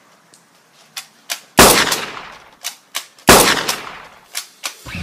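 Two loud gunshot-like bangs about a second and a half apart, each dying away over about a second, preceded by a couple of sharp clicks. They are gunshot sound effects laid over a Nerf blaster being fired, far bigger than a foam blaster's own pop.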